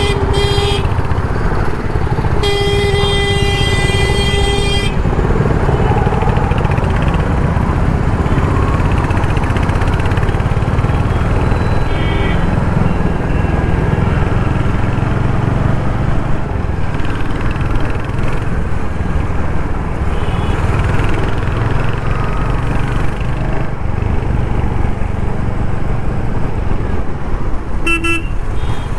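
Royal Enfield Hunter 350's single-cylinder engine running steadily on the move in city traffic, with vehicle horns honking: a long horn blast about three seconds in, and short toots around the middle and near the end.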